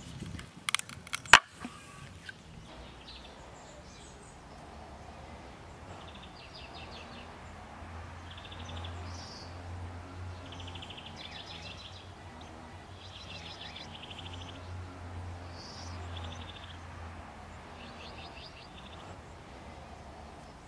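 A few sharp clicks and one loud snap near the start as metal pincers grip and pull a rusty nail from a wooden board. Then a bird sings short, high trilled phrases over and over, about one every one and a half to two seconds.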